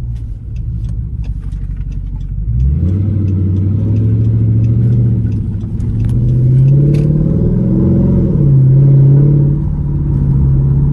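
Straight-piped 6.4-litre HEMI V8 exhaust of a 2012 Dodge Charger SRT8 under acceleration: low and steady at first, then about two and a half seconds in the engine note jumps and climbs, rises again to a peak, drops back as the gearbox shifts up, and holds steady.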